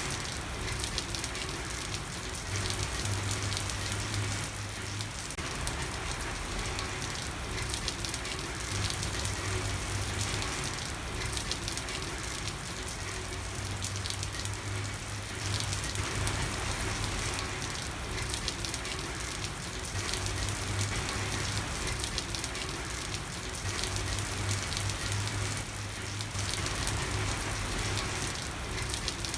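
Steady rain falling on a hard surface, a constant hiss with fine patter, under a low hum that fades in and out every few seconds.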